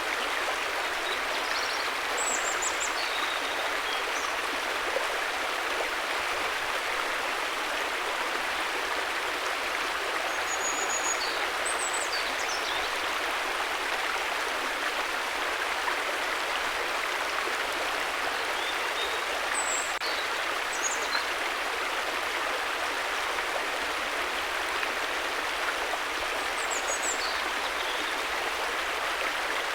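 River water flowing steadily, with a few faint high chirps every several seconds.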